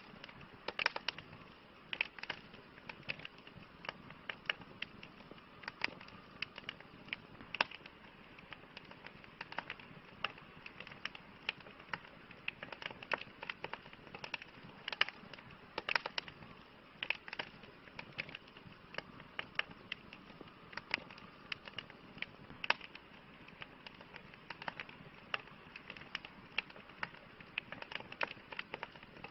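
Wood campfire crackling: irregular sharp pops and snaps, often several a second, over a steady soft hiss.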